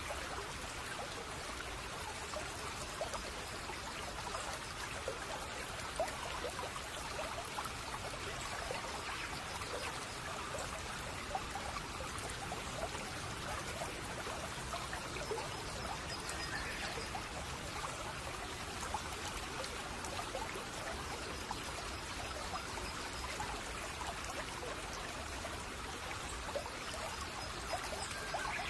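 Shallow brook babbling and trickling over stones, a steady, even flow with fine splashing.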